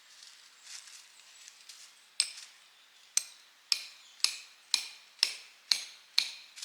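Tent peg being hammered into the ground: eight sharp metallic strikes about half a second apart, each with a brief ring, starting about two seconds in.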